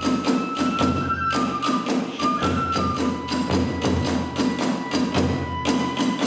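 Kagura hayashi ensemble playing: a transverse bamboo flute holding long notes that step between a few pitches, over a fast, steady beat of taiko drums and small hand cymbals.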